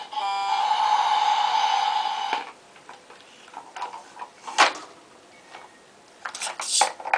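Battery-powered toy garbage truck running with a loud whirring mechanical sound that cuts off about two and a half seconds in. Light plastic clicks and knocks from the toys being handled follow, with one sharper knock in the middle.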